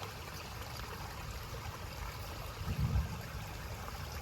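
Shallow creek water trickling steadily, with a brief low rumble a little under three seconds in.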